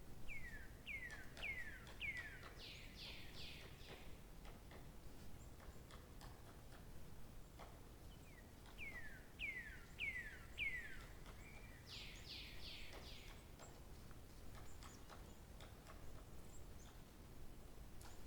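A songbird singing two phrases about eight seconds apart, each a run of four or five downward-sliding whistled notes followed by a quick cluster of higher notes.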